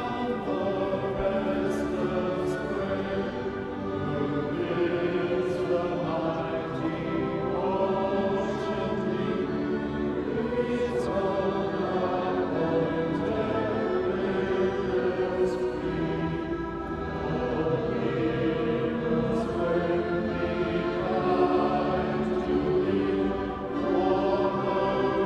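A choir singing slow music with long held notes.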